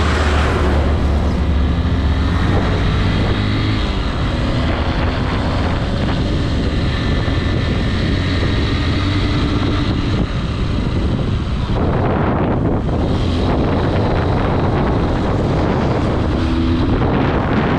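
Honda CRF150L motorcycle running at riding speed, with heavy wind noise buffeting the microphone. The sound is steady, and its texture shifts slightly about twelve seconds in.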